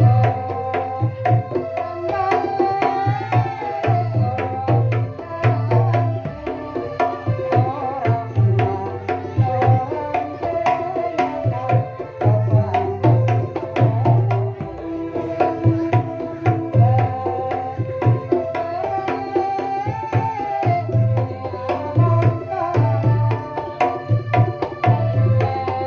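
East Javanese-style pencak silat kendang drumming: a fast run of sharp hand strokes over deep, booming bass beats in a repeating rhythm. A wavering melody line plays above the drums without a break.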